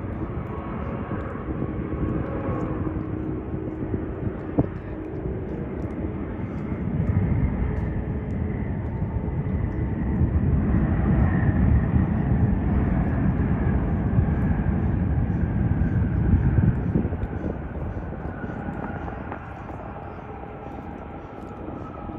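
Jet airliner engines rumbling with a faint whine, growing louder over several seconds, holding near the middle, then fading as the plane passes.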